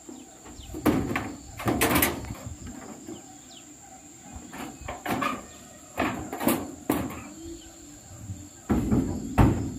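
About ten sharp knocks and bangs at irregular intervals, typical of hands-on building work with timber and zinc roofing sheets.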